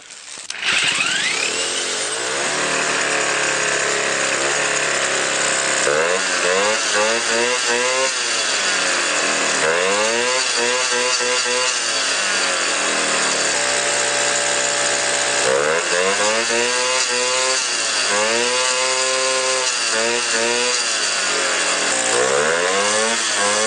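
A Jawa 50 Pioneer moped's small two-stroke single-cylinder engine, fitted with a counter-piston, catches under a second in and runs. It is revved up and down over and over with a raspy two-stroke note.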